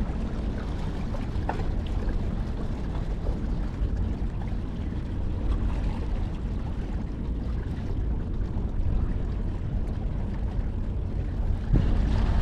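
Steady low rumble of wind buffeting the microphone at the harbour edge, with a few faint ticks.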